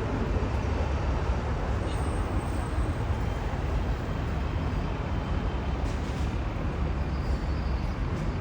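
Steady street traffic noise, vehicles passing with a continuous low rumble.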